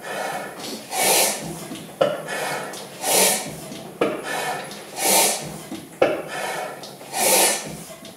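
Crossley slide-valve stationary gas engine running slowly as it starts: a sharp beat about every two seconds, with a hissing puff between each.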